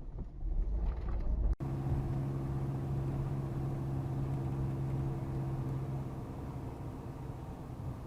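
Vehicle noise: a low rumble that cuts off abruptly about a second and a half in, then a steady running drone with a hum that stops about six seconds in.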